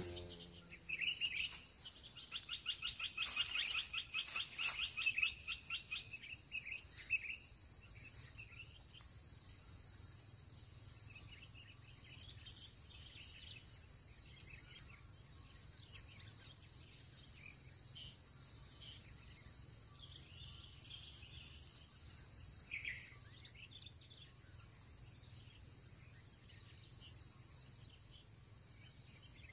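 Steady, high-pitched pulsing insect trill that runs unbroken, with scattered short faint chirps beneath it and a brief rapid rattling series a few seconds in.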